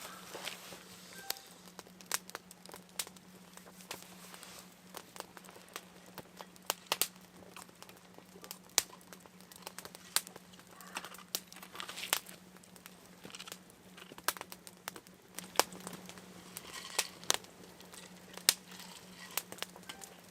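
Irregular crackling and small clicks with a few sharper pops, over a faint steady low hum.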